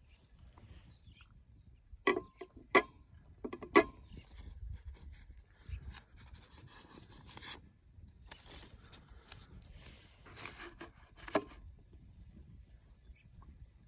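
A few sharp knocks and clinks, three close together and another near the end, some with a short ringing tail, amid rustling and scraping handling noise.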